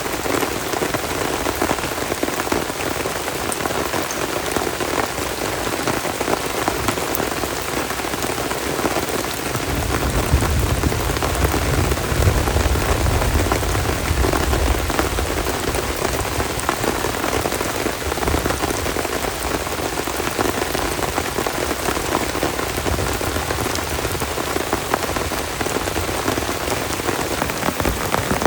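Heavy rain falling and pattering steadily, a dense hiss of drops on a surface. About a third of the way in a low rumble rises under the rain and fades over several seconds.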